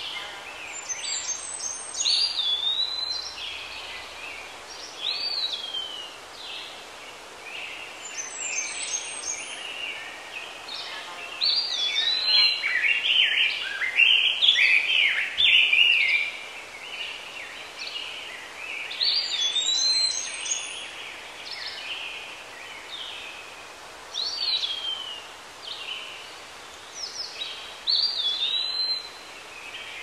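Birds calling: short high whistled notes, many of them quick upward swoops, repeated every few seconds. The calls overlap in a busier burst of chirping midway through. A steady outdoor hiss runs underneath.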